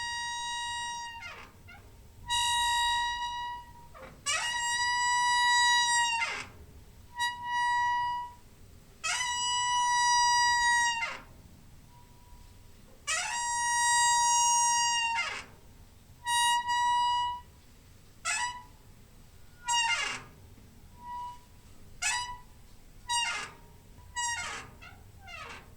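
Door hinge squeaking: a run of long, drawn-out squeaks at a steady high pitch, each ending with a quick drop in pitch. Near the end they come as shorter, quicker squeaks.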